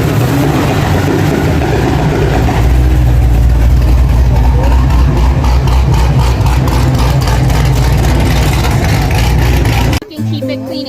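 Loud car engine and exhaust running with a deep note, getting louder about two and a half seconds in and held there. It cuts off abruptly near the end.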